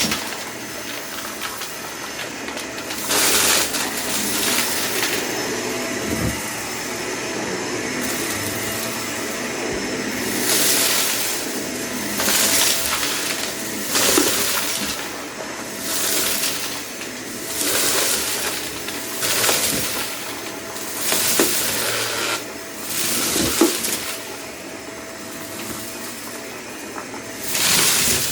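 Vacuum cleaner running steadily with a faint whine, broken by about a dozen bursts of crackling and rattling as debris is sucked up.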